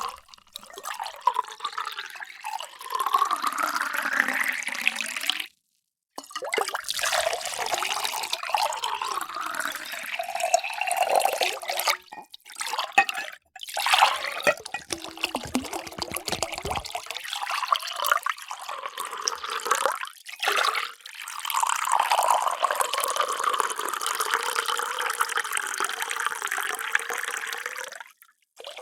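Water poured into containers in a series of about five separate pours cut one after another. In the first pour the pitch climbs as the vessel fills.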